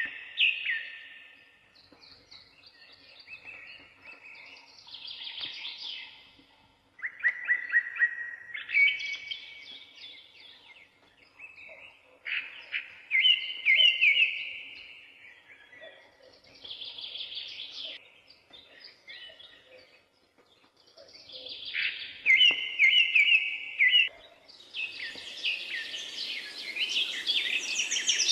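Birds singing in repeated short phrases of chirps and trills, with pauses between phrases. In the last few seconds the song thickens into a busier chorus of calls over a hiss.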